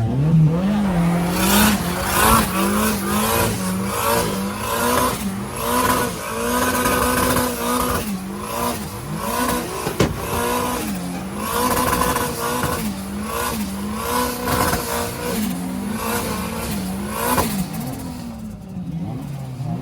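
Car engine revved over and over, its pitch climbing and dropping about once a second, with a sharp crack about halfway through.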